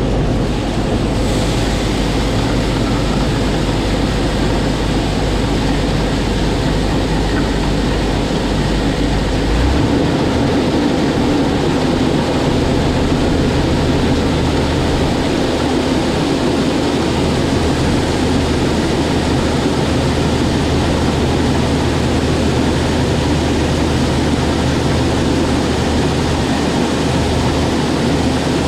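John Deere 4000 tractor running a swing-away grain auger to unload soybeans from a wagon into a bin: steady engine and auger noise with a hiss of moving grain. The engine note shifts up about ten seconds in.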